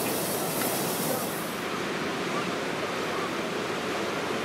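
Steam-hauled train running past: a steady rushing of the train on the rails, with no clear beat of exhaust beats. The highest hiss drops away about one and a half seconds in.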